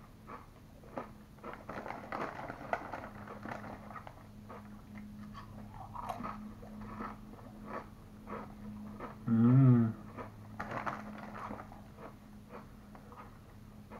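Close-up chewing of hard, crisp kettle-cooked potato chips: many short crunches one after another. About nine and a half seconds in, a brief hummed voice sound from the eater is the loudest moment.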